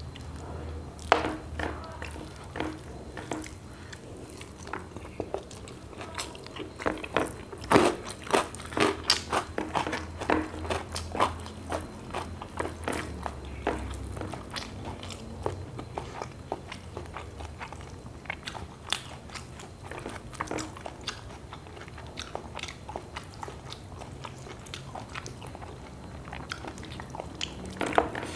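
Close-miked eating sounds: a person chewing and biting into food, with crisp crunches and wet mouth clicks. The strokes come thickest in the first half and again at the very end.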